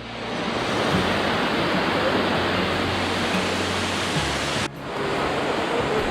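Waterfall on Helton Creek running full after recent rain, a steady rushing roar of falling water. It drops out for an instant about three-quarters of the way through and comes straight back.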